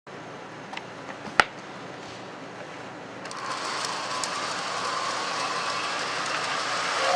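Lionel O gauge toy train running on three-rail track, growing louder from about three seconds in as it comes closer. There is a single sharp click about a second and a half in.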